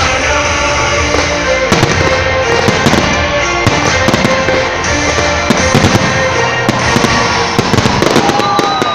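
Fireworks salute: a rapid run of bangs and crackles from bursting shells, over music from loudspeakers.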